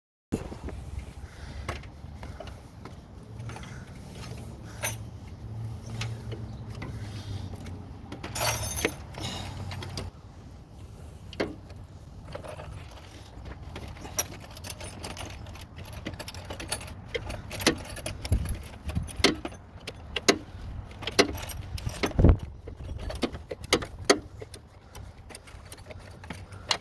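Hand tools working bolts loose on an engine: scattered metallic clinks, clicks and knocks of a wrench and sockets against the bolts and engine parts, thicker in the second half. A low hum runs under the first ten seconds.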